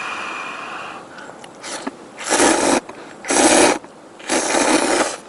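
Instant ramen noodles slurped from the bowl: three loud slurps, each about half a second long, about a second apart. They follow a steady hiss with a thin whistle in the first second.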